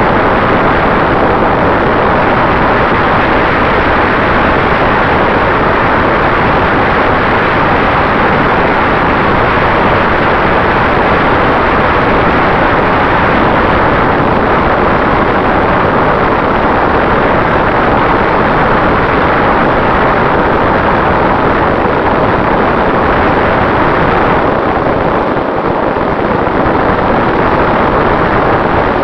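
FPV quadcopter in flight, heard through its onboard camera: a loud, steady rush of wind and propeller noise with a faint, steady motor whine.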